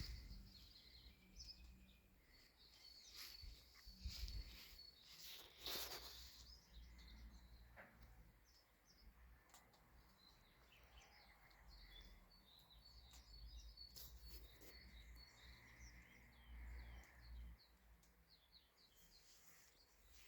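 Near silence: faint outdoor ambience with distant small birds chirping in quick repeated notes, and a few soft rustles in the first several seconds.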